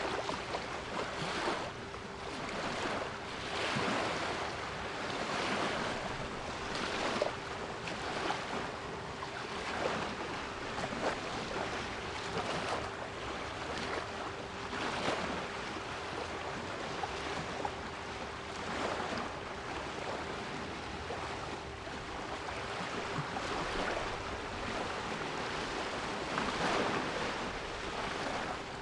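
Sea waves washing and surging in a steady hiss, swelling every second or two, with a steady 396 Hz pure tone held underneath.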